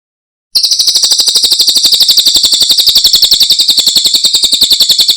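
A cililin songbird giving a loud, fast, even trill of about thirteen sharp, high notes a second. It starts about half a second in and sinks slightly in pitch as it goes.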